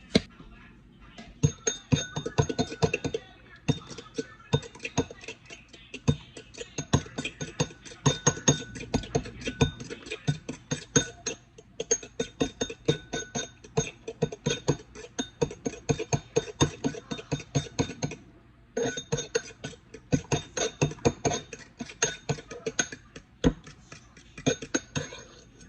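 A fork beating eggs against the side of a bowl: rapid clinking, about five strokes a second, with the bowl ringing. It breaks off briefly twice.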